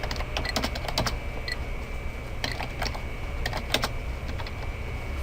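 Computer keyboard being typed on: irregular key clicks, several in quick runs, with short pauses between.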